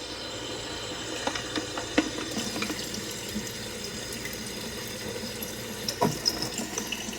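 Water running steadily from a kitchen tap, with a few light knocks and clinks on top of it.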